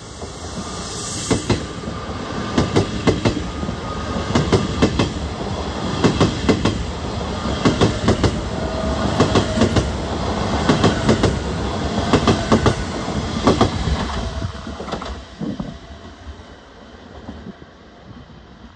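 SBB FV-Dosto double-deck electric train rolling past close by, with wheels clacking in close pairs over the rail joints and points. The clacks come about every second and a half and fade away near the end as the train clears.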